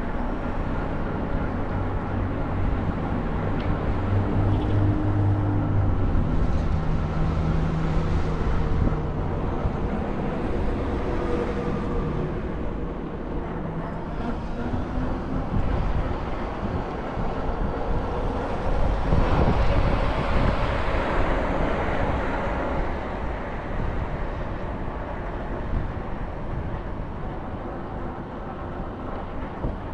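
Ride inside a moving city bus: a low engine and drivetrain hum that rises and falls in pitch as the bus speeds up and slows, over steady road rumble. The road noise swells louder about twenty seconds in.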